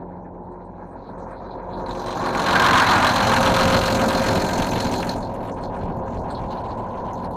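Truck's diesel engine running. It swells loudly for a few seconds, then drops back to a steady idle.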